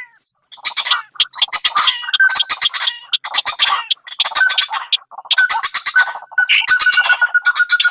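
Recorded rail calls, sintar and white-breasted waterhen, played back as a bird-trapping lure: repeated phrases of fast, harsh chattering notes, each about a second long, with short pauses between them. A steady high tone joins in near the end.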